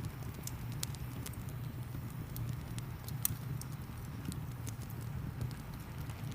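Wood fire crackling, with irregular sharp pops, over a steady low rumble and a soft hiss of rain.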